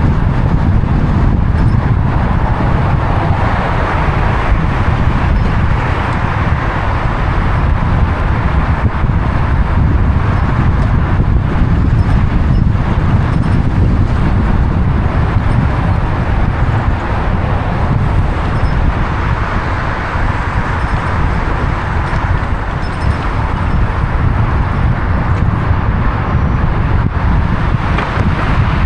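Steady road noise of a car driving: a continuous rumble of tyres and engine with wind noise.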